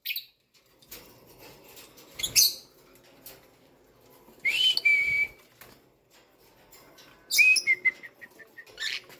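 Caged birds, lovebirds among them, calling: a few short shrill calls and two longer whistled notes, the second breaking into a quick run of short chirps.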